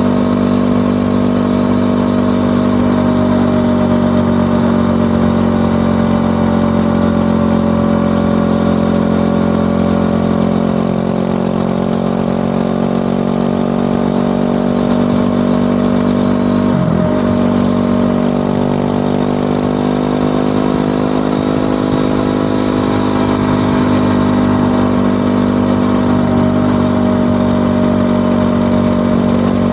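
Yamaha WR250R's single-cylinder engine, through an FMF PowerCore 4 muffler, running steadily while the bike cruises, its note drifting slowly up and down. About seventeen seconds in, the note dips briefly and comes back.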